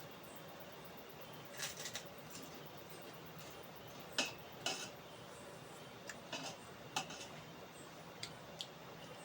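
Eating utensils clinking and scraping against a plate: a handful of short, irregular clicks spread over several seconds.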